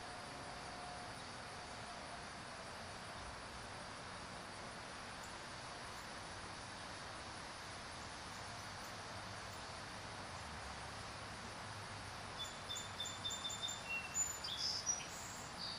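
Steady outdoor background hiss with the faint tone of a distant siren dying away in the first couple of seconds. Near the end a bird gives a quick run of short, high chirps.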